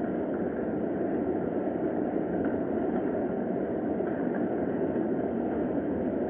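Steady rain, an even rushing hiss without a break.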